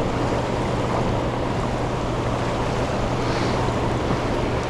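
Steady rush of fast-moving river water with wind buffeting the microphone, and a low steady hum underneath.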